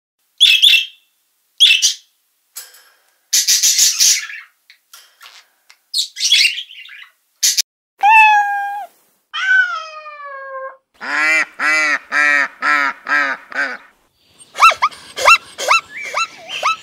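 A string of animal calls. Macaws give harsh squawks five times over the first eight seconds. Kittens then give two long meows that fall in pitch, followed by a quick run of six short calls. From about 14.5 s a zebra gives a rapid series of high, yelping bark-like calls.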